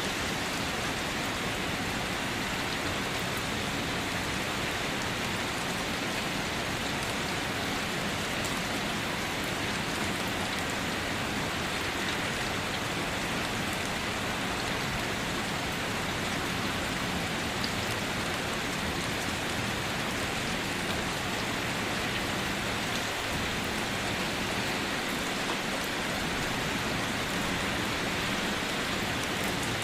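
Steady, continuous rain falling on surfaces, with scattered faint drop ticks and no thunder.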